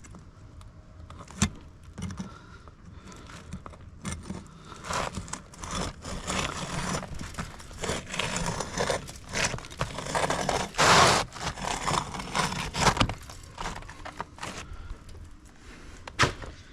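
Asphalt roofing shingle being cut and handled: irregular scraping and tearing strokes with sharp clicks, loudest about eleven seconds in.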